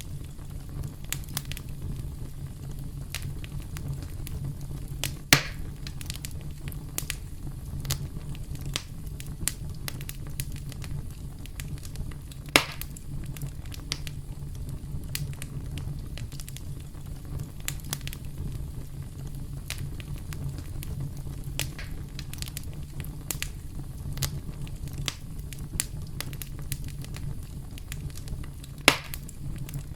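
Wood fire crackling: a steady low rumble of flames with many small snaps, and three louder sharp pops spread through it.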